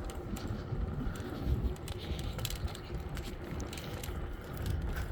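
Low, steady wind rumble on the phone's microphone while riding a bicycle, with scattered light clicks and rattles from the ride.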